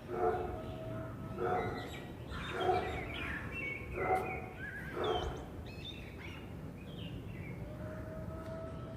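Birds chirping and calling, with five louder calls about a second apart in the first five seconds, then lighter chirps and whistles.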